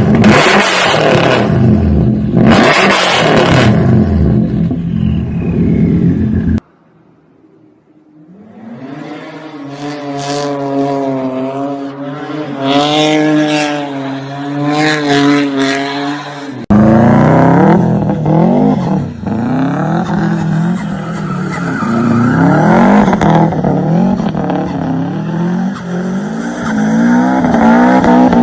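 Turbocharged car engines revving hard, in separate clips cut together. First an engine surging on and off in loud pulses. After a brief near-silent gap, an engine revs up and down several times. From about seventeen seconds in, an engine pulls hard, its pitch climbing and dropping again and again.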